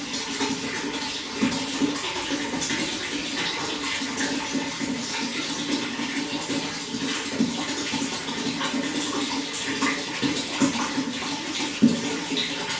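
Running water: a steady splashing flow, with a few brief louder splashes now and then.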